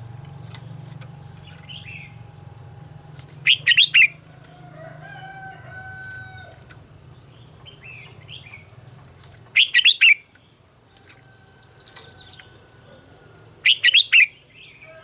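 Red-whiskered bulbul singing: three loud, quick bursts of song, each a cluster of three or four sharp notes, spaced about five seconds apart, with fainter bird calls in between.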